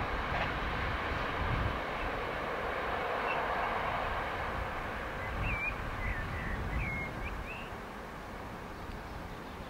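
Train rolling away along the track, its rumble fading steadily. A bird chirps a few times about halfway through.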